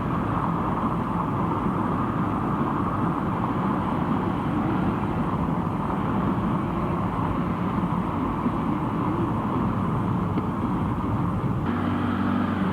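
Steady engine and road noise heard from inside a moving vehicle, with a low engine hum standing out more clearly near the end.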